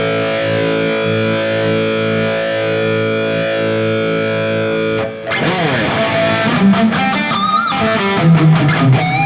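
High-gain distorted electric guitar through a digital amp modeler's 5150 amp model with a little delay. A chord rings for about five seconds, then a fast picked riff with string bends and low chugging notes follows.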